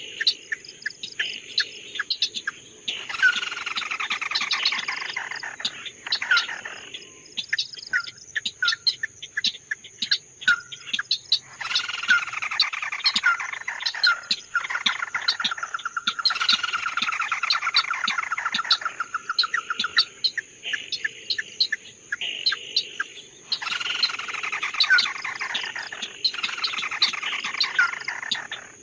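A songbird, the bird the Vietnamese call chim mắt đỏ ('red-eyed bird'), singing in phrases a few seconds long, each a run of quick notes sliding downward, with short sharp chirps in the gaps between phrases. In the middle comes a longer rapid trill.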